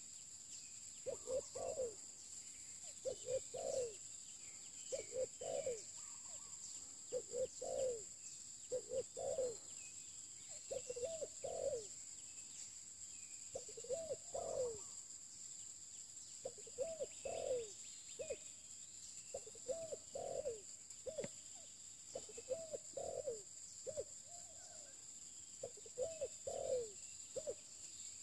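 Spotted dove cooing over and over, one short phrase about every second or so, with a couple of brief pauses. A steady high-pitched hum runs underneath.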